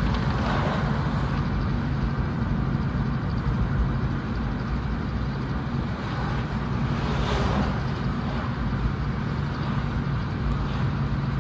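Dump truck's diesel engine with a split exhaust manifold and stack muffler, running steadily with an even low rumble. A brief hiss cuts in about seven seconds in.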